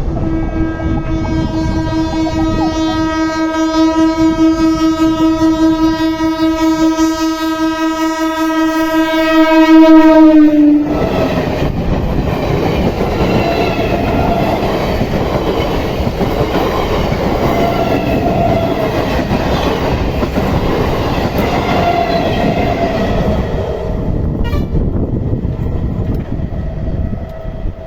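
Train horn sounding one long steady blast for about eleven seconds, then a train running past over the crossing, its wheels clattering on the rails.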